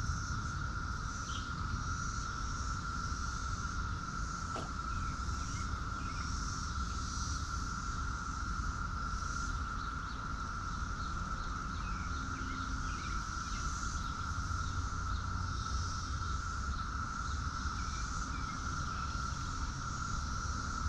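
Outdoor insect chorus: a continuous steady high drone with a pulsing, shimmering layer of crickets above it, a few faint short chirps, and a low rumble underneath.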